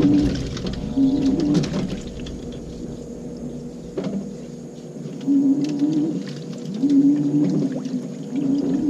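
LG 18 kg washing machine, loaded full of clothes, agitating on its cotton cycle. Its drive motor whines in short back-and-forth strokes about once every second and a half, with water sloshing and the clothes churning. The strokes pause for about three seconds in the middle, then start again.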